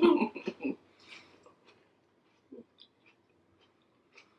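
A voice trails off in the first moment, then faint chewing and small mouth clicks of someone eating, with a short soft thump about two and a half seconds in.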